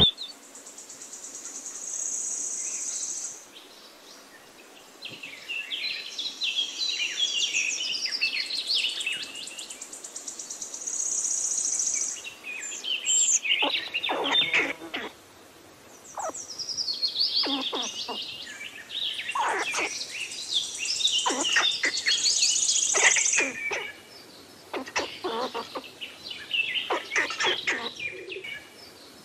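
Songbirds singing and chirping, with many quick overlapping calls, some sweeping steeply down in pitch, and a high, thin trill that comes and goes.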